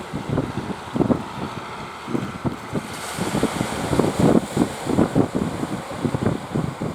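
Wind buffeting the microphone in uneven gusts, over the noise of the sea and fishing-boat motors.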